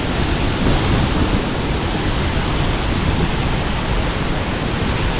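Large waterfall running with a loud, steady rush of water.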